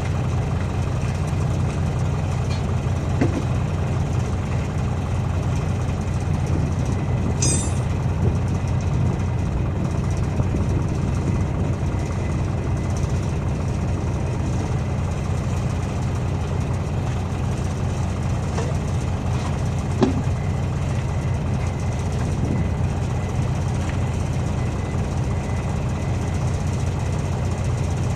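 Heavy diesel engine idling steadily, with a few brief metal knocks and clinks from tyre work.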